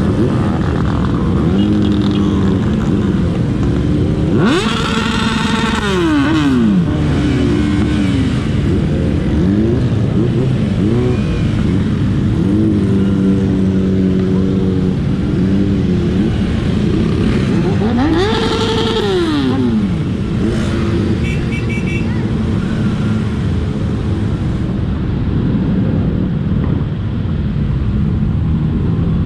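Motorcycle engines running under way in a group ride, over a steady loud rumble. Twice an engine revs sharply up and back down, about five seconds in and again near eighteen seconds.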